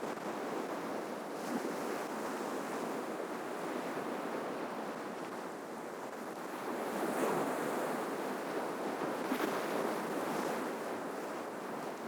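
Ocean waves breaking on the shore: a continuous wash of surf that swells with a bigger wave about seven seconds in, with hissing splashes near the end.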